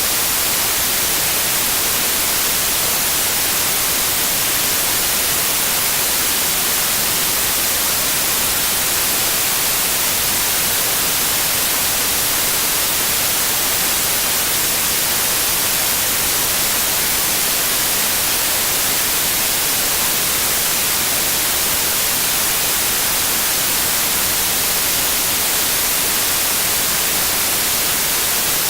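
Steady synthesized white noise, an even hiss heaviest in the highs, with a faint 528 Hz sine tone under it that does not change.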